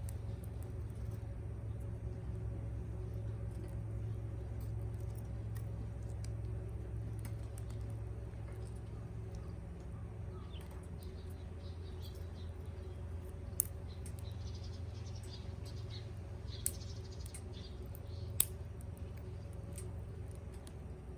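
A small wood campfire with a steady low rumble and three sharp crackling pops in the second half.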